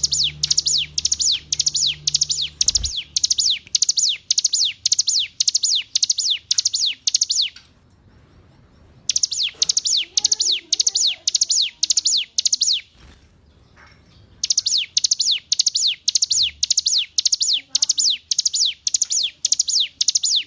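Ciblek gunung, a mountain prinia, singing a fast run of high, sharp downslurred notes, about three to four a second. The song comes in three long bursts with short pauses between them.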